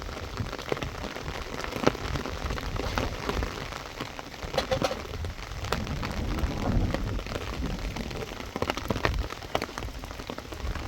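Steady rain falling, with many separate drops striking sharply close by.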